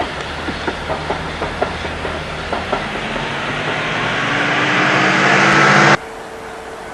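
Class 73 electric train running on jointed track, wheels clicking over the rail joints above a steady rumble that grows louder; about six seconds in the sound cuts off suddenly to a quieter steady hum.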